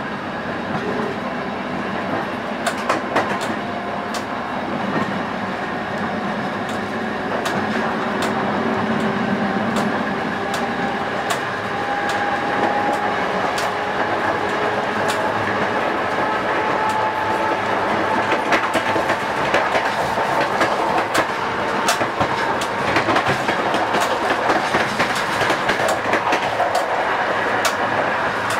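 Passenger train hauled by a CFR Class 40 electric locomotive running, heard close to the coupling between locomotive and coach: wheels clicking over rail joints over a steady running rumble. A faint whine rises slowly in pitch as the train gathers speed, and the clicks come more often in the second half.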